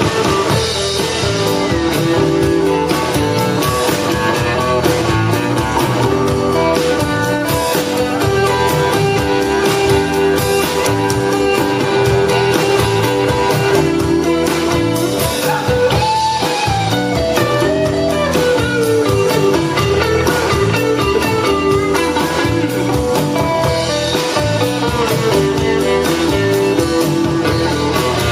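Blues band playing an instrumental break between verses of a Cajun blues song, with guitar prominent. About sixteen seconds in, a line of notes glides downward.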